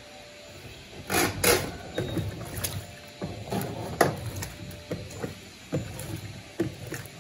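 Electrolux Turbo Compacta 7 kg top-loading washing machine in its normal agitation cycle, churning a load of rugs: irregular sloshing and splashing of water with sharp slaps of the wet load, the loudest about a second in and again about four seconds in.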